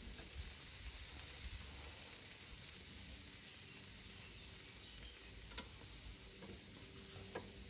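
Pork loin skewers sizzling faintly on a charcoal grill, a steady soft hiss. A sharp click about five and a half seconds in and a smaller one near the end.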